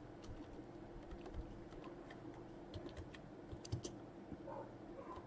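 Faint typing on a computer keyboard: scattered keystrokes with a quick run of several keys about three seconds in, over a low steady hum.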